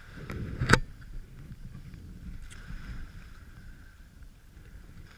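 Kayak paddling: water sloshing and dripping from the paddle, with one sharp knock under a second in and a few smaller clicks.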